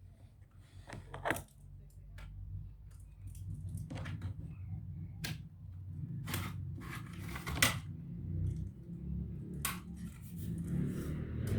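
Scattered sharp clicks and taps of tools and plastic parts being handled during a laptop teardown, over a low steady hum.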